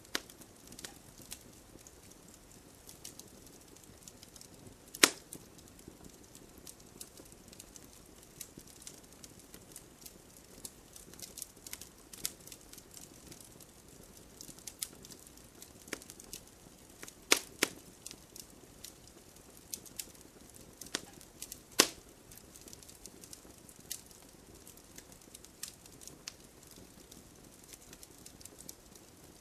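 Wood fire burning in a fireplace, crackling with scattered small clicks over a low hiss, and a few louder pops, the loudest about five seconds in and two more later on.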